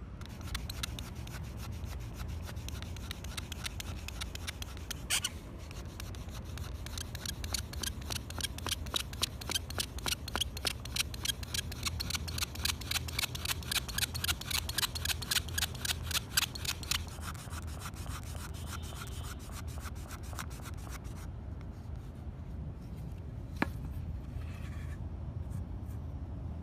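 Rapid, rough scraping strokes, many a second, on a hard surface; they grow louder in the middle and stop a few seconds before the end, over a steady low hum. A single sharp tick follows near the end.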